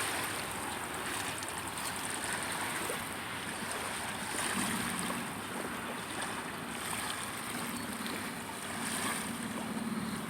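Riverbank ambience: a slight breeze on the microphone over a steady wash of water. A faint low drone from a distant boat motor comes in about halfway through.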